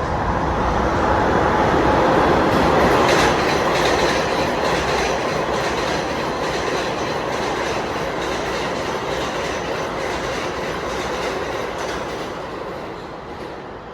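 R160 subway train running along the rails, its wheels clacking over rail joints. It is loudest about three seconds in, then fades steadily as it moves away.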